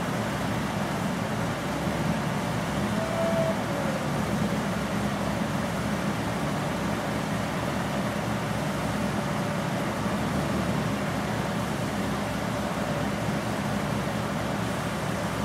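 Steady engine and fan hum with no revving: a car idling on a chassis dyno, not a power pass.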